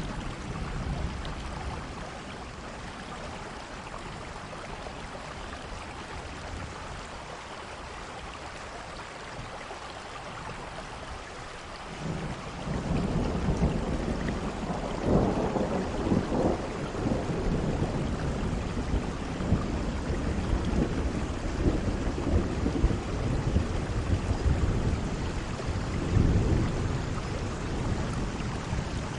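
Steady rain falling, with thunder: about twelve seconds in a low rolling rumble starts and carries on, swelling and fading several times.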